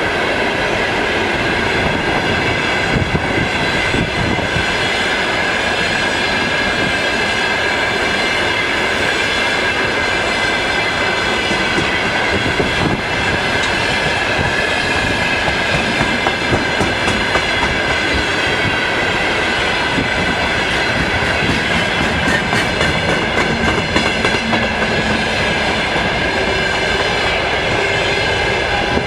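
Freight train rolling past, its wheels clattering over the rail joints, with a steady high ringing from the wheels on the rails.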